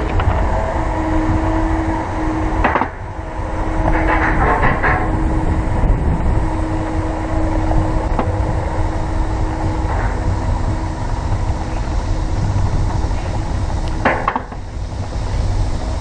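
Roller coaster train running along its steel track: a steady loud rumble with a held wheel whine and scattered metallic clacks.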